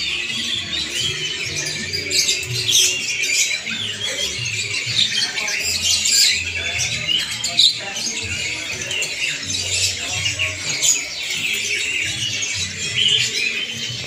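Many caged small birds chirping and squawking at once, a dense, unbroken chorus of mixed calls.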